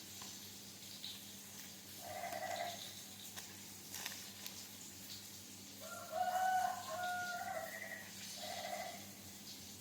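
A rooster crowing, one drawn-out stepped call about six seconds in, with short animal calls about two seconds in and near the end, over a faint steady hum.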